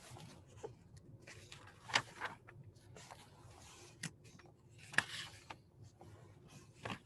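Faint rubbing with scattered sharp clicks from a computer mouse being moved and clicked on a desk, the two loudest clicks about two and five seconds in.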